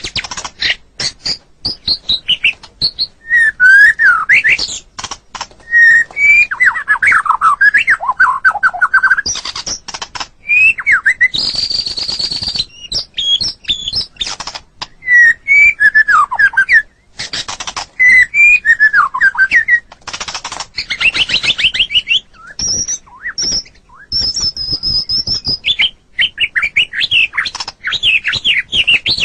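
White-rumped shama (murai batu) singing a varied, continuous song: clear whistled glides and fast trilled runs broken by a few harsh, raspy notes, with short pauses between phrases.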